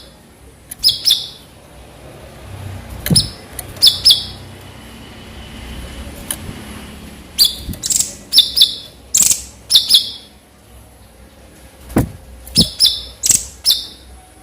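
Cucak cungkok songbird calling in short, sharp, loud bursts, several quick notes in a row, then a pause, repeated four times.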